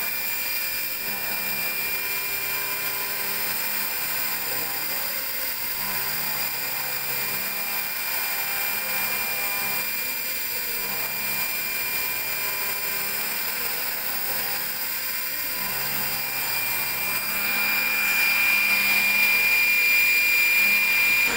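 CNC vertical machining center running a cut: a steady high spindle whine over a hiss, with a lower hum that comes and goes in short spells. The whine grows louder about eighteen seconds in.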